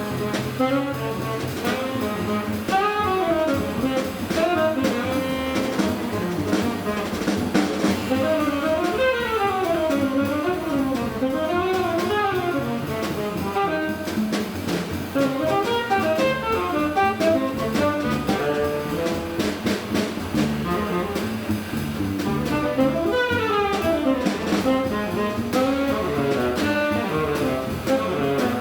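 Jazz saxophone playing quick runs that climb and fall, over a drum kit.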